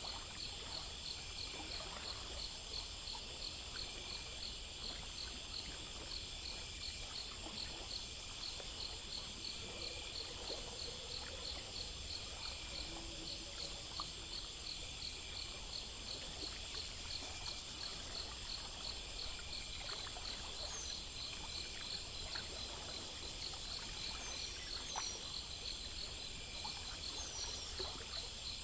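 A night chorus of crickets and other insects: steady, evenly repeating chirps at several high pitches, layered over one another without a break. A few short falling chirps come through near the end.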